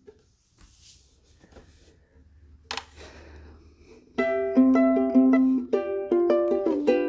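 A ukulele is quiet at first, with only faint handling noises and one sharp click. About four seconds in, it starts playing a picked run of plucked notes and chords.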